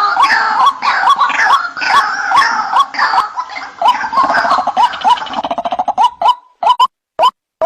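White-breasted waterhen (ruak-ruak) calls played as a bird-lure recording: loud repeated rising notes about three a second, turning into a quick fading run around five seconds in. After a short gap near the end, the calls come as single spaced notes about two a second.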